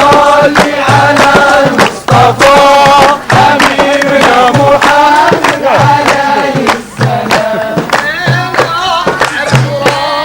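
A group of voices singing together, with a steady low drum beat about once a second and sharp percussive strokes, like clapping, in time.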